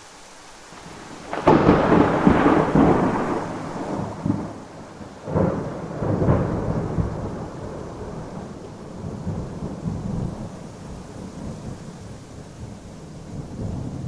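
Thunderstorm: a loud thunderclap about a second and a half in rumbles on for a few seconds, and a second clap about five seconds in rolls off into long fading rumbling, over steady rain.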